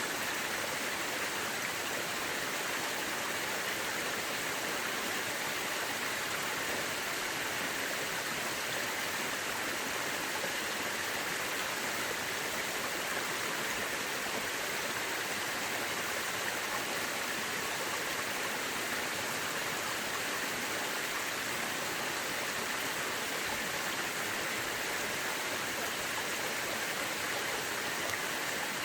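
Mountain river rushing steadily over rocks, an even unbroken hiss of running water.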